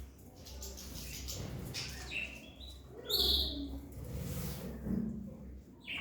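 Caged songbirds chirping in short scattered calls, one louder burst about halfway through.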